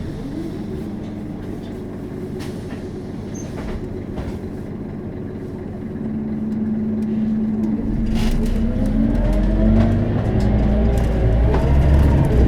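Scania DC9 five-cylinder turbodiesel of a Scania K270UB bus heard from inside the bus, running steadily at first, then pulling harder from about six seconds in, its pitch climbing as the bus accelerates. Occasional short knocks and rattles throughout.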